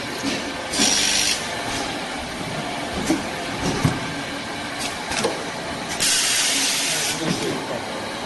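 An automatic beam clamp drilling machine running with a steady machine noise, broken by two loud hissing bursts, one about a second in and one longer near the end, and a few sharp metallic clicks in between.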